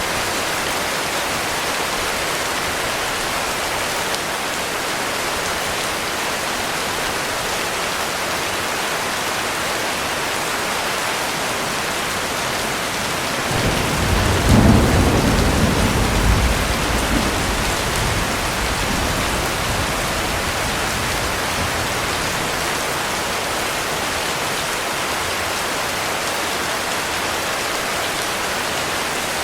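Heavy rain falling steadily. About halfway through, a low rumble of thunder swells and then fades away over several seconds.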